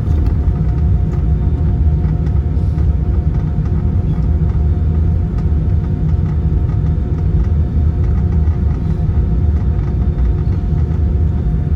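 Steady low rumble inside the cabin of an Airbus A320 taxiing after landing: the engines running at idle and the aircraft rolling on the taxiway, with a faint steady hum over the top.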